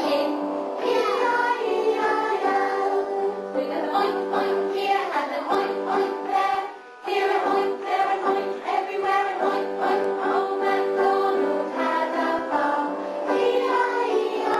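Music with a group of voices singing together, dropping out briefly about seven seconds in.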